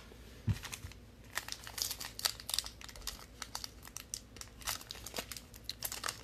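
Plastic wrapper of a football trading-card pack crinkling and tearing in irregular crackles as it is worked open by hand; the plastic pack is hard to open.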